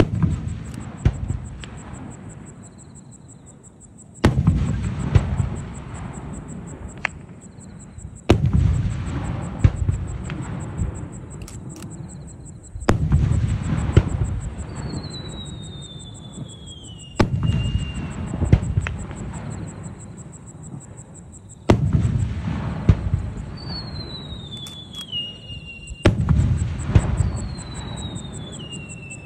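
Aerial firework shells bursting: a deep boom about every four seconds, seven in all, each trailing off in a rumbling echo with some crackle. A few falling whistles sound in the second half.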